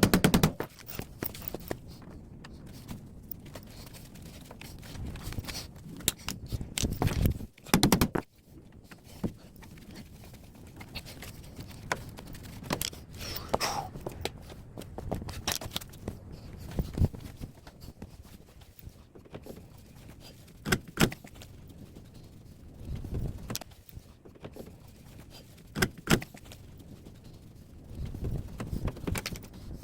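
Intermittent metal clinks, knocks and scraping from hand work on a scrapped air-conditioner outdoor unit, with a loud cluster of strikes about a quarter of the way in and single sharp knocks later on.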